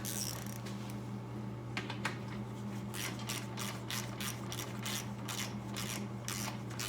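Ratchet wrench clicking in a regular run of short strokes, about two to three a second, as a nut is run on, over a steady low electrical hum.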